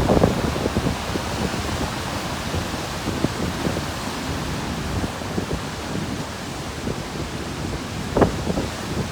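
Atlantic surf crashing and churning against a rocky shore at high tide, a steady rushing roar with gusty low rumbling from wind buffeting the microphone. A sharper burst stands out about eight seconds in.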